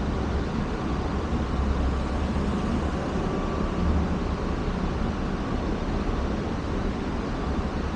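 Steady low rumble with an even hiss over it, like a running engine or machine, with no distinct knocks or changes.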